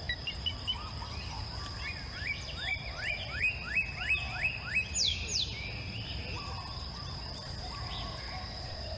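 A songbird singing: a quick series of about ten short rising notes, then a louder falling note about five seconds in. A steady high insect drone runs underneath.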